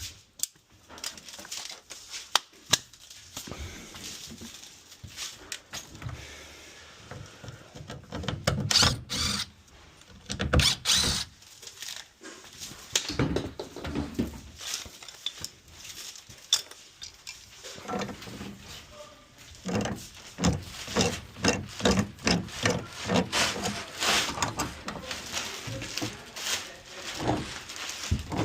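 Hand work with tools and plumbing parts: irregular knocks, clicks and scrapes, coming thick and fast in the last third.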